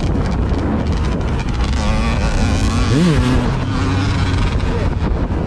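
Loud, steady wind noise buffeting the microphone on a moving vehicle, a low rumble throughout. About three seconds in, a short pitched sound rises and falls.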